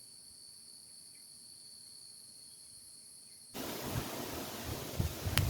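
Steady high-pitched chirring of crickets, which cuts off abruptly about three and a half seconds in to a loud rush of wind buffeting the microphone, with low thumps.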